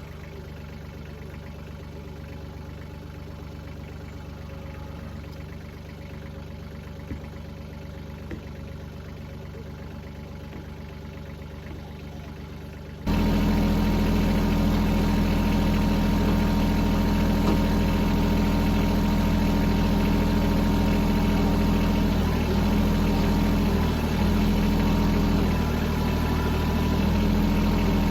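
Kubota L-series tractor's diesel engine idling steadily. It jumps sharply louder about halfway through.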